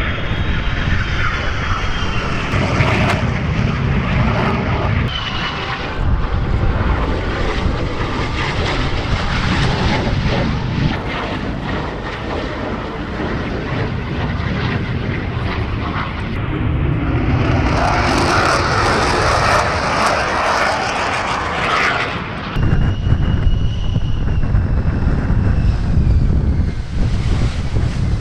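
F-35 Lightning II jet in flight, its single Pratt & Whitney F135 engine giving a loud, continuous rumble. A high whine slides down in pitch as the jet passes, about a second in and again over the last few seconds.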